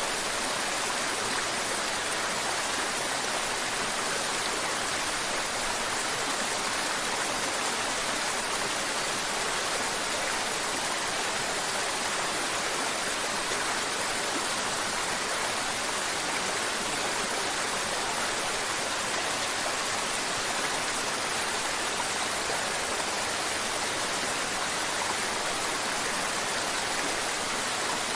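Mountain river water rushing and babbling over rocks, a steady even hiss.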